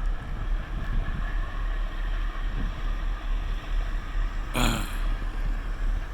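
Wind buffeting the microphone over the low, steady rumble of a towboat's diesel engines pushing barges. There is a short sharp noise about four and a half seconds in.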